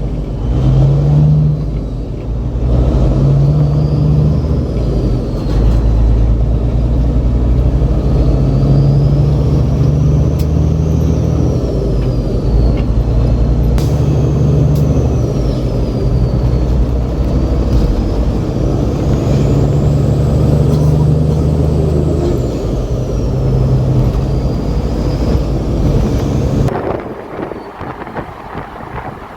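Semi truck's diesel engine running at highway speed, heard from inside the cab, its pitch stepping up and down every few seconds, with a faint whistle rising and falling above it. The sound drops off suddenly near the end.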